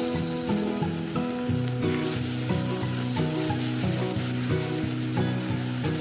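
Scrambled egg and cheese frying in a wok, sizzling steadily as a metal spoon stirs and scrapes it round. The oil is starting to separate from the mixture. Background music with a simple melody plays underneath.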